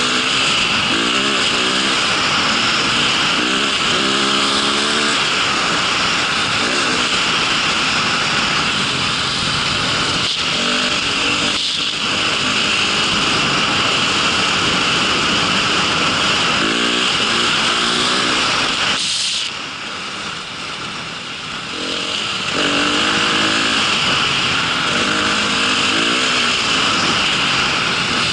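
Small vehicle engine on a winter ride, revving up and falling back again and again over a constant rushing noise. It drops back for a few seconds about two-thirds of the way through, then picks up again.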